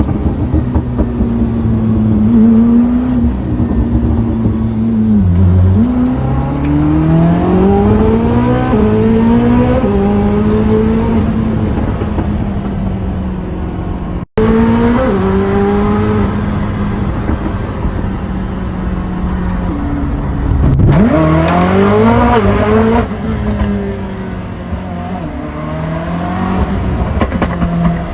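Koenigsegg Jesko's twin-turbo V8 accelerating hard through the gears, its pitch climbing and dropping back at each upshift. A sudden cut about halfway through, and about two-thirds through the engine note dips sharply and climbs again.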